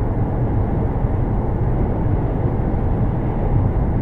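Steady low road and engine rumble of a car driving, heard from inside the car through a dash cam microphone.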